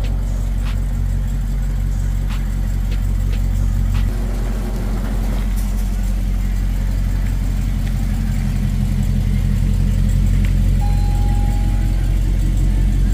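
Dodge Challenger SRT Hellcat's supercharged 6.2-litre Hemi V8 idling with a steady low rumble, with a few light clicks in the first few seconds.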